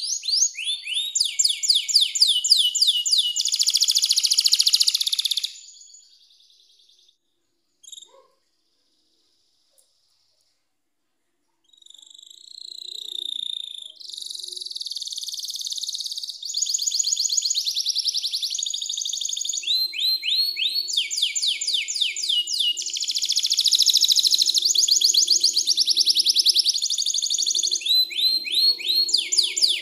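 Domestic canary singing long phrases of fast trills, each made of rapidly repeated falling notes, with a pause of several seconds broken by a single short chirp.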